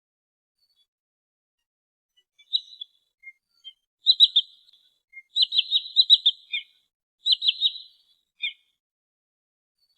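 Sandpiper (trinil sawah) calls, as played for a bird lure: repeated bursts of quick, sharp, high notes, each burst a rapid run of three to five notes. The calls begin about two and a half seconds in, come several times, and end with a single note.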